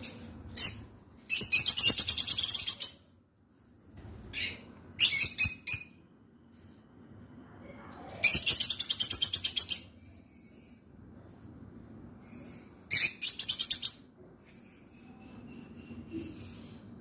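Rosy-faced lovebirds calling in bursts of rapid, shrill chirps, each burst lasting one to two seconds, with quiet gaps between; four main bursts.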